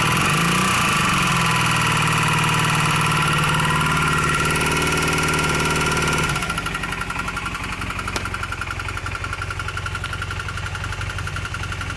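Honda CM400 parallel-twin motorcycle engine running with a regular knock. Revs rise in the first second and hold there, then drop back to idle about six seconds in.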